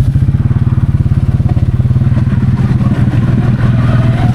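Can-Am 700 XMR ATV engine running steadily under load as it crawls through deep mud, with a slight rise in revs about four seconds in.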